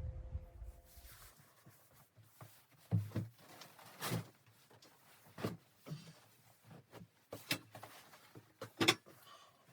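A series of irregular knocks and clicks, roughly one every second or so, with the loudest about three seconds in and near the end. A low rumble stops about a second in.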